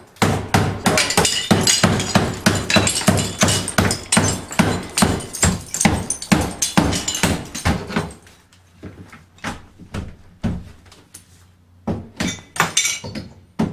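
Drywall being broken out and pulled off the wall studs: a dense run of cracking and crumbling knocks for about eight seconds, then scattered knocks and thuds.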